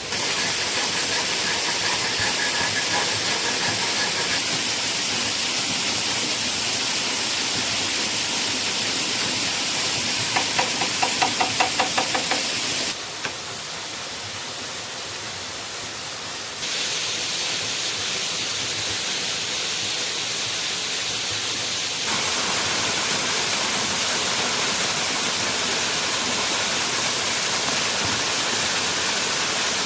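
Steady rushing hiss of a waterfall, with a quick series of about eight knocks a little past ten seconds in; the water sound drops in level for a few seconds, then comes back.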